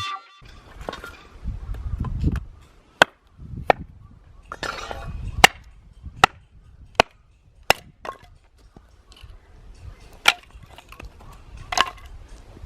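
Firewood being split: about eight sharp chopping strikes at irregular intervals, with duller knocks and handling of the wood between them.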